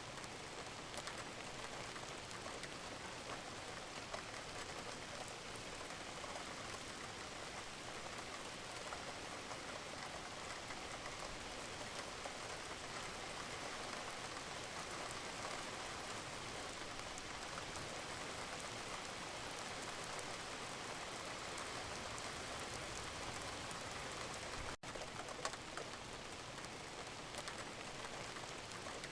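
Steady rain falling, a dense even hiss with individual drops ticking through it. Near the end it cuts out for a split second and resumes at once.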